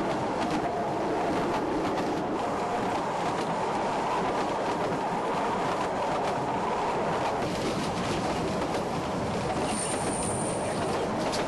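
Ffestiniog Railway narrow-gauge train running on the track: a steady rumble with scattered rail clicks, and a brief high-pitched wheel squeal near the end.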